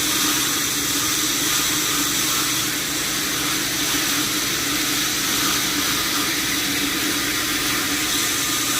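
Sawmill machinery running steadily: a constant motor hum under an even hiss, with no distinct cuts or knocks.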